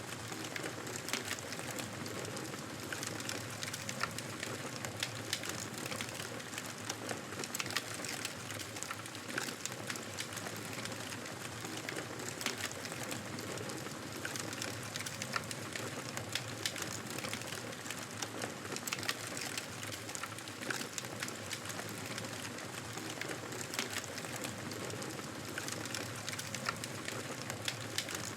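Wood fire burning in a fireplace: a steady hiss of flames with frequent small, irregular crackles and pops.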